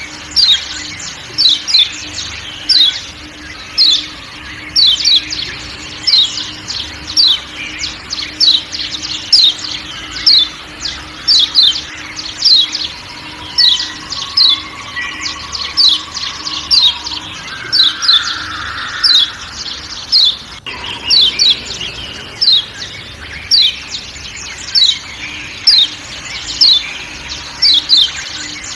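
Yellow white-eye (kecial kuning, Zosterops) giving repeated sharp 'ciak ciak' call notes. The notes are short, quickly falling chirps, about one or two a second and often in pairs. They sound over a steady forest background.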